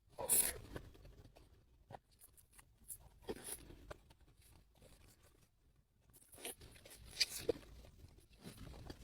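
Several short crackly, rustling bursts close to the microphone, from handling and eating KitKat wafer bars. One comes right at the start, another about three seconds in, and a longer cluster about six to seven and a half seconds in.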